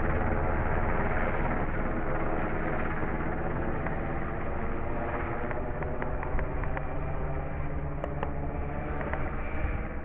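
Helicopter flying over, a steady drone from its rotor and engine that slowly fades as it moves away.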